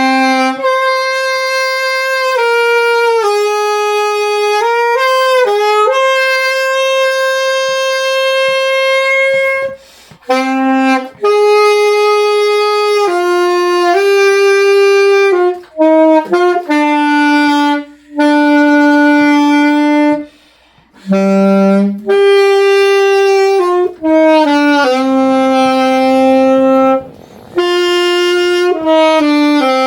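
Saxophone playing a slow melody. Each note is held steady and moves stepwise to the next, with short breaks between phrases.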